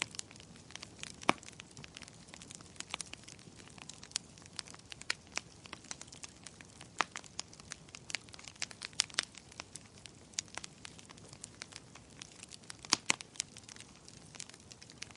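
Wood fire crackling in a fireplace: irregular sharp pops and snaps over a soft steady hiss, with the loudest pops about a second in and near the end.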